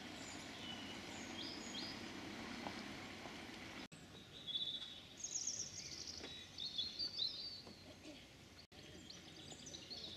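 Songbirds singing and calling, with chirps and trills, over a steady outdoor background hum. The sound drops out abruptly twice, near four and nine seconds in.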